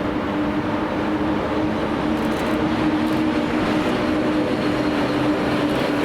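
An electric train running along the track: a steady running noise with a constant hum underneath.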